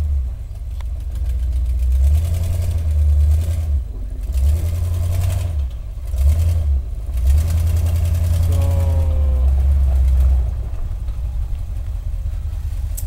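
Off-road truck engine revving in repeated surges while rock crawling, settling to a steadier run about ten seconds in.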